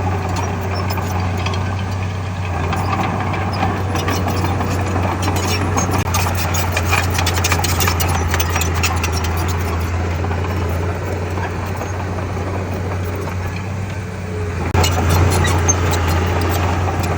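Komatsu bulldozer's diesel engine running steadily, with a dense run of clicks and rattles through the middle. The engine gets louder about fifteen seconds in.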